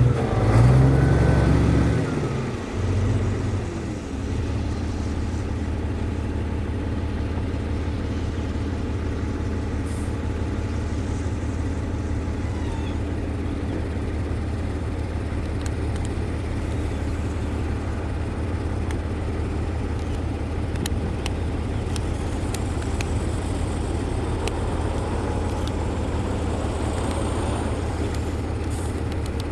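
Heavy diesel construction machine engine running, louder and uneven for the first few seconds, then settling into a steady low drone.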